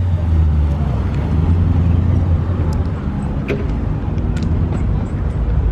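A car's engine rumbling low and steady as it creeps slowly by. The rumble is strongest in the first two seconds and eases a little after that.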